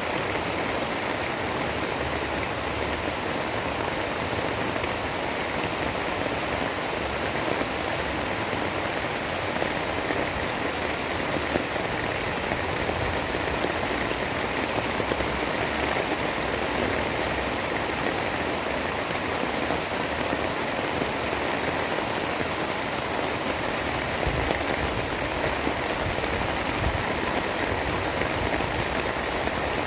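Steady storm ambience of heavy rain: an even, unbroken hiss with no distinct drops, gusts or thunder.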